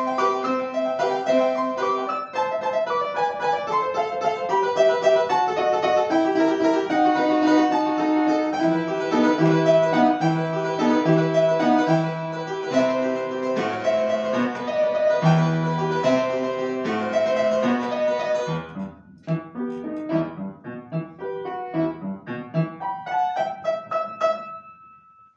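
Solo piano playing a classical piece with busy, running notes. About 19 seconds in there is a brief break, then quieter, sparser phrases, and a last chord that dies away near the end as the piece finishes.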